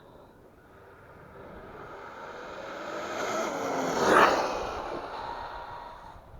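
HPI WR8 radio-controlled rally car speeding past at full throttle. The sound builds steadily, is loudest about four seconds in as the car goes by, then fades away.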